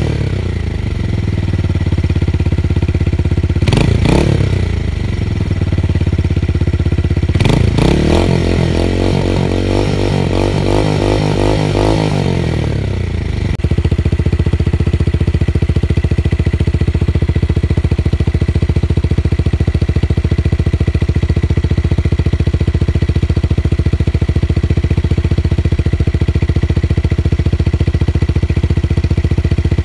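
Tuned motorcycle engine and exhaust with a deep, bass-heavy note. The throttle is blipped twice in quick revs, then held up with wavering revs for a few seconds before dropping abruptly to a steady, throbbing idle.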